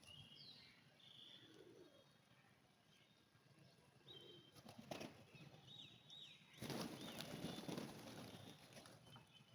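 Faint flapping of pigeons' wings: a brief flurry about five seconds in and a longer one from about seven to eight seconds, with thin, high bird chirps between them.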